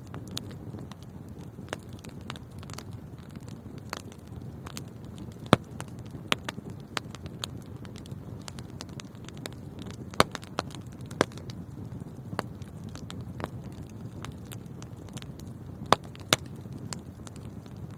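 Wood fire burning in a fireplace: a steady low rush of flames with frequent sharp crackles and pops, the loudest at about five seconds in, about ten seconds in, and twice close together near the end.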